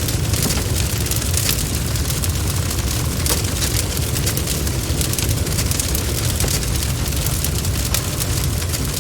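Campfire burning: a steady low rumble of flames with many quick, sharp crackles and pops from the burning wood.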